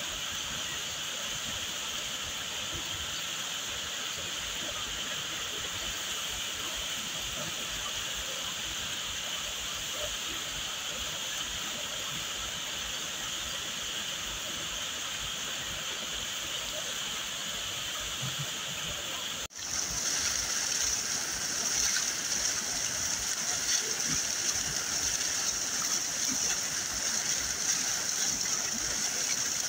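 Waterfall water pouring and splashing in a steady rush. About two-thirds of the way through it cuts abruptly to a louder, hissier rush of falling water.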